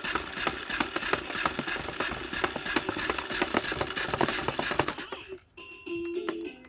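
Hard plastic toy clattering in a rapid, irregular run of clicks and rattles, which stops about five seconds in; a simple electronic toy melody of short beeping notes starts just after.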